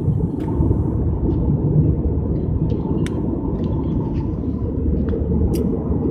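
Airliner cabin noise in flight: a steady low rumble of engines and airflow, with a few faint clicks scattered through it.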